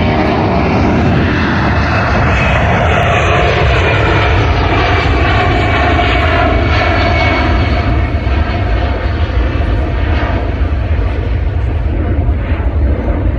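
Loud engine roar of an airplane flying low overhead, its pitch sweeping downward as it passes.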